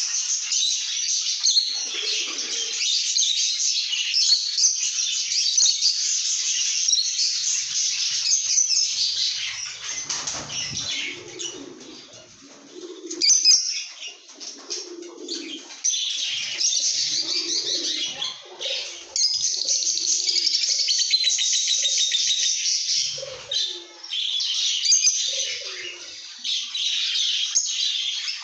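Lovebirds chattering in dense, rapid high chirps, thinning out briefly near the middle, with softer, lower sounds mixed in from then on.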